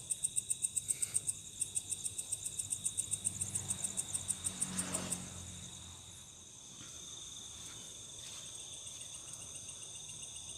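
Night insects calling: a loud, fast pulsed chirping, about five chirps a second, over steady high-pitched trills. The chirping stops about five seconds in, leaving the steady trills.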